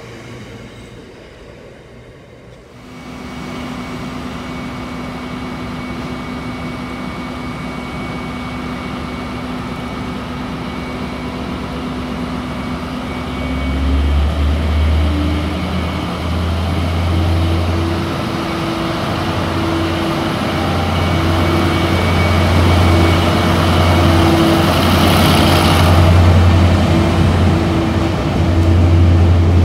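A Network Rail Class 73 locomotive approaching and running through the station at the head of a train of blue rail-head-treatment water-tank wagons. A steady hum sets in a few seconds in, then a deep engine drone and the rumble of wheels on rail, growing louder as the tank wagons pass close by, with a brief hiss near the end. In the opening seconds, the tail of an earlier freight train fades out.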